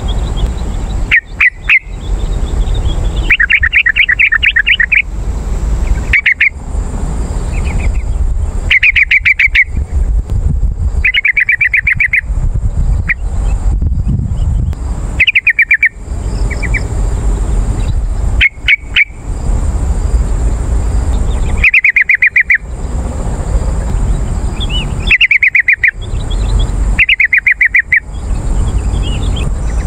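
Yellow-vented bulbul (trucukan) song: repeated short bursts of quick, bubbly chattering notes, each about a second long and a second or two apart. A steady low rumble runs underneath.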